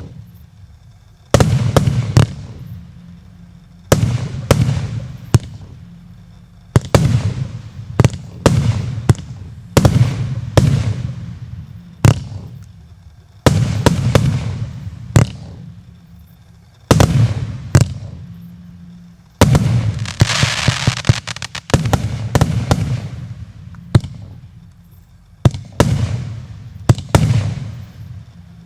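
Multi-shot consumer firework cake (78 shots) firing shot after shot: a sharp bang about every second, each trailing off, with a stretch of crackling hiss about two-thirds of the way through.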